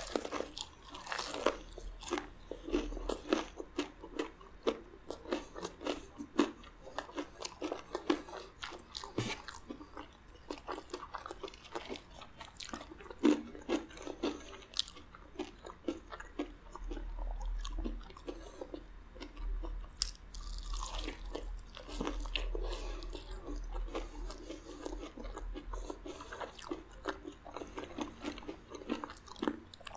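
Close-up biting and chewing of crunchy crumb-coated fried chicken: many sharp crunches, thickest in the first half, then steadier chewing.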